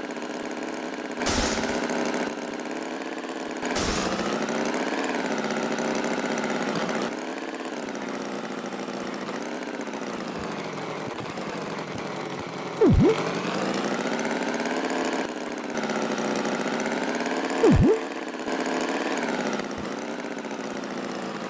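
A steady, engine-like drone whose pitch wavers up and down. It grows louder for a few stretches, and has two quick falling swoops, about halfway through and again some five seconds later.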